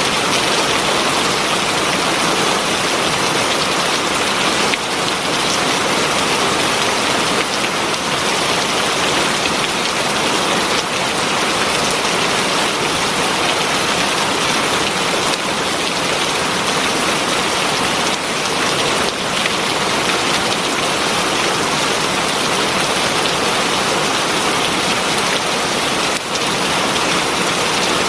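Heavy rain falling steadily: a dense, even hiss of many drops with no let-up.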